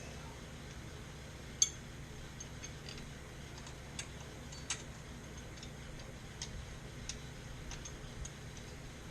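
Scattered light clicks and taps over a low steady hum, the sharpest about a second and a half in.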